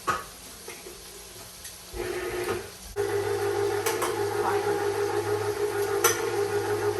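A small electric motor starts about three seconds in and runs with a steady hum. Before it there is a click and a short rush of noise.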